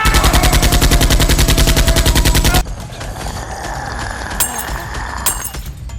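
Rapid automatic gunfire, a machine-gun sound effect: one dense burst of shots that cuts off suddenly after about two and a half seconds.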